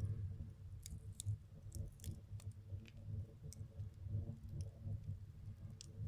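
Fire burning in a stove, crackling with sharp, irregular pops and snaps over a low steady rumble.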